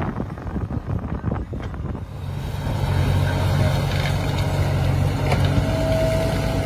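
Heavy diesel engine running steadily, coming in clearly about two seconds in over wind noise; a thin steady whine joins near the end.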